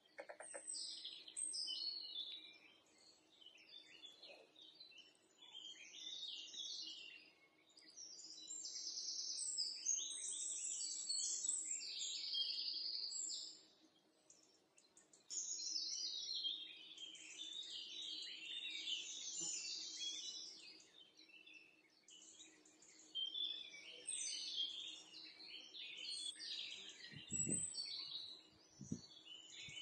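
Many small birds chirping and twittering at once, in dense overlapping bursts with a short lull about halfway through. A faint steady hum runs underneath, and two low thumps come near the end.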